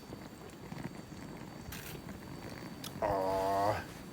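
A man's drawn-out, satisfied 'ahh' after a swig of beer, about three seconds in and lasting under a second.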